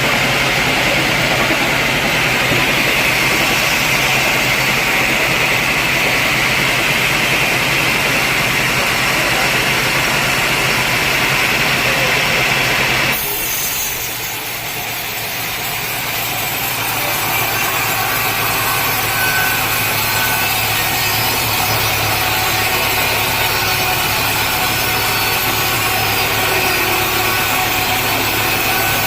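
Sawmill saw running and cutting through a large teak log, a loud steady grinding of blade through wood over machine hum. About halfway through the sound changes abruptly and dips briefly before the steady sawing resumes.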